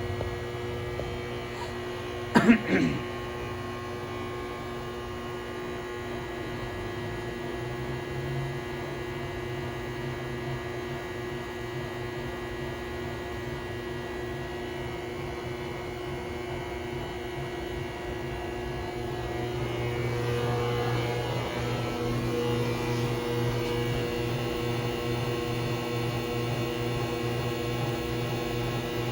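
Samsung washing machine spinning on a test run after its drum spider was replaced: a steady motor hum with several even tones and no loud knocking or banging, the sign that the new spider is sound. A brief sharp clatter comes about two and a half seconds in, and about twenty seconds in the hum grows louder with a higher tone added as the spin changes.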